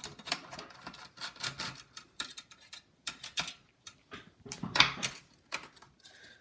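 Precision screwdriver working small screws out of a laptop's metal and plastic chassis: a string of irregular light clicks and scrapes, with a louder cluster a little before five seconds in.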